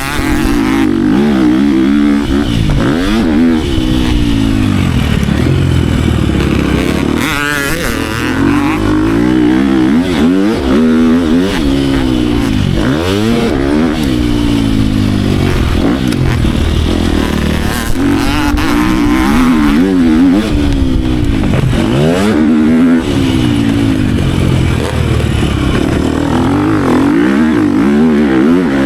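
Dirt bike engine revving hard and easing off again and again, its pitch climbing and dropping every second or two as it is ridden around a motocross track.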